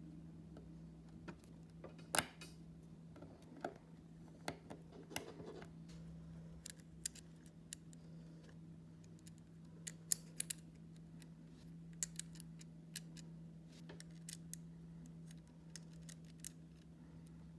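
Hard plastic 3D-printed parts clicking and snapping in irregular sharp clicks as they are handled and fitted together, over a steady low hum.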